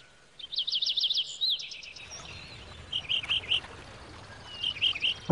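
Small bird calling: a quick run of high, repeated chirps in the first second or so, then two short groups of about three chirps, one around the middle and one near the end.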